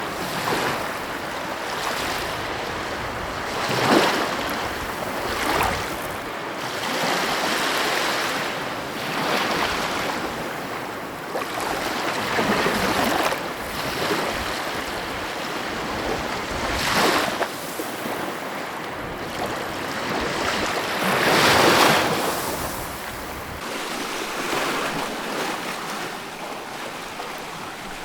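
Ocean surf: waves breaking and washing in, rising and falling every few seconds, with the strongest surges a few seconds in, past the middle and about three-quarters through.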